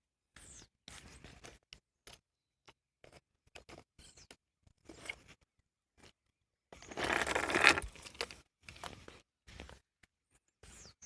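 Footsteps and rustling of someone walking into a crop field: short, broken scrapes and rustles, with a louder stretch of rustling lasting about a second in the middle.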